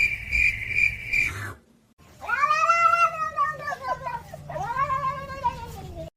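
A cat yowling: two long, drawn-out meows, each rising and then falling in pitch, the second shorter. Before them, a steady high-pitched trill pulsing a few times a second cuts off about a second and a half in.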